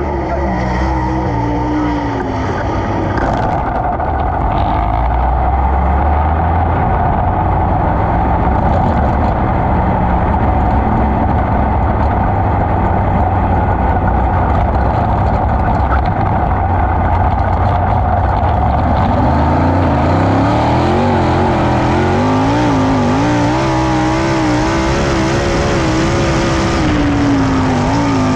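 410 sprint car V8 engine running hard on a dirt track, loud and continuous. In the last third its pitch rises and falls repeatedly as the throttle is worked.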